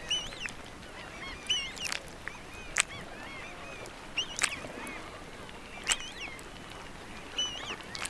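Bird calls: short, squawking calls repeated every second or two, with a few sharp clicks in between.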